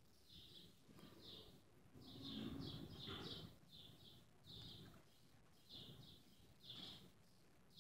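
Small birds chirping faintly, many short high chirps in quick clusters, with a stretch of low muffled noise about two seconds in.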